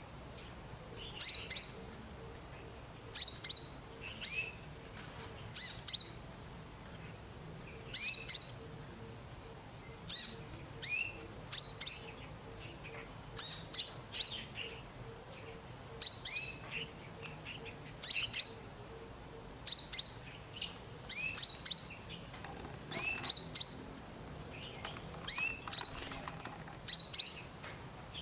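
A caged sunbird, the bird sold in Indonesia as 'kolibri ninja', calling in short, sharp, high chirps every second or two, often in quick pairs or clusters.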